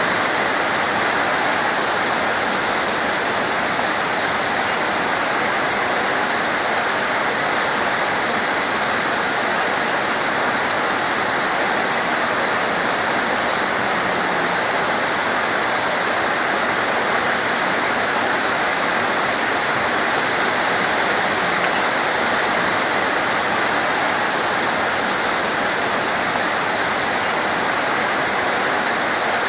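Heavy torrential rain pouring down in a steady, dense hiss, with one faint click about ten seconds in.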